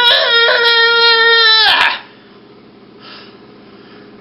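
A person's high-pitched voice holds one long, steady crying wail that cuts off about two seconds in. Only faint room noise follows.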